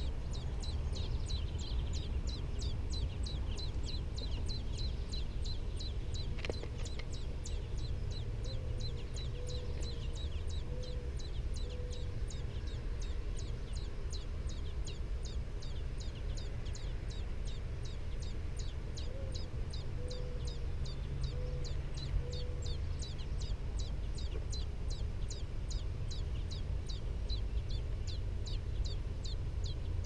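American robin nestlings begging: rapid high-pitched peeping, several short chirps a second without a break, over a steady low rumble.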